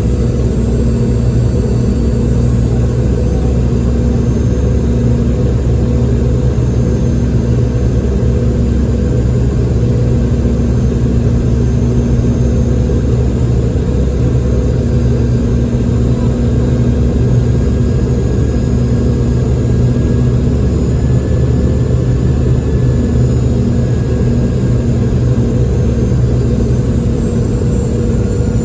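Boeing 717 airliner's jet engines running steadily, heard inside the passenger cabin as a loud, even drone with a low, constant hum.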